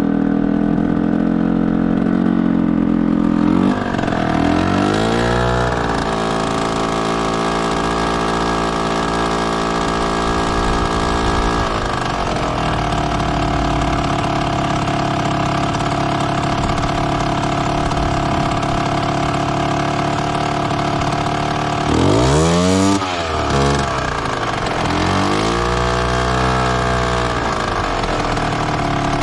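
Derbi Senda motorcycle engine running at idle while its carburettor is being adjusted. The revs rise about four seconds in and hold higher until near the middle, then settle, with two short throttle blips near the end.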